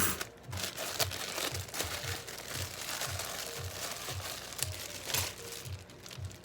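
Packaging being crumpled and handled: a continuous crinkling and rustling with many small crackles, thinning out near the end.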